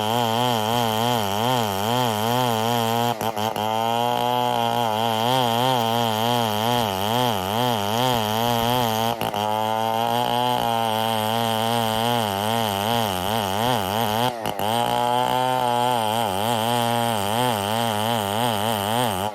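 Stihl 070 chainsaw, a large two-stroke, cutting ironwood under load. Its engine pitch wavers steadily as the chain bites, with a few brief dips along the way.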